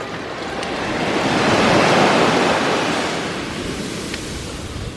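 Sea waves on the shore: one wave swells to a loud hissing wash about two seconds in, then draws back and fades.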